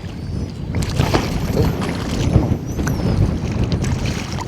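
Wind buffeting the microphone in a low, steady rumble, with a few light knocks.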